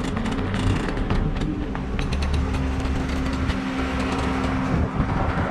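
Pickup truck running on the road, a steady low engine drone with road noise and a few light clicks and rattles.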